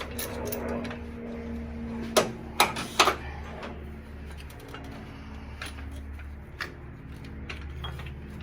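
Engine parts and hand tools being handled during an engine teardown: a few sharp knocks and clinks, the three loudest about two to three seconds in and fainter ones later, over a steady low hum.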